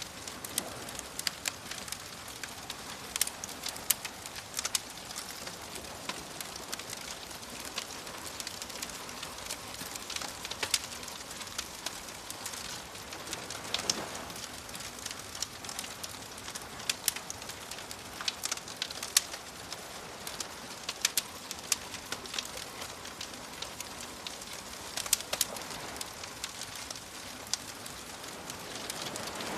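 Wood fire crackling with frequent sharp pops and snaps over a steady wash of ocean waves, which swell once midway.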